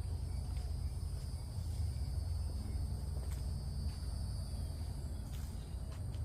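Insects, likely crickets, giving a steady high-pitched drone over a constant low rumble, with a few faint clicks.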